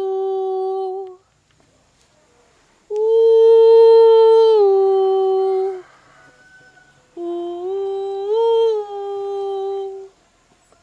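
A woman's voice singing long, wordless held notes in three phrases with short pauses between them. Each phrase steps between two or three steady pitches: the first two step down, the last rises and then falls back.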